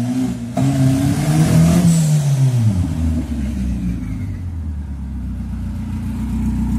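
Turbocharged VW Gol engine revved: the pitch climbs for about two seconds, then drops back and settles to a steady, uneven idle. The engine is stuttering, and its carburettor is still being tuned.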